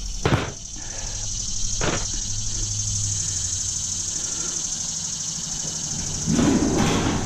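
Two sharp knocks about a second and a half apart, from small metal parts being handled, over a steady high hiss. A louder, fuller noise comes in near the end.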